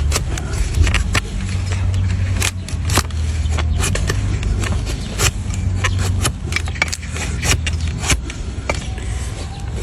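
Hoof-trimming tools cutting and paring a donkey's hoof horn: a run of sharp, irregular clicks and scrapes, two or three a second, over a steady low hum.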